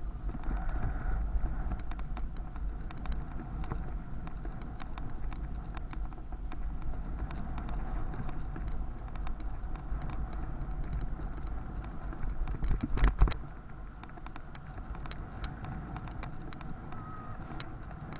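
Riding a bicycle on city streets: low wind rumble on the microphone with rapid rattles and clicks from the bike over the road surface, and traffic in the background. About thirteen seconds in there is a louder jolt.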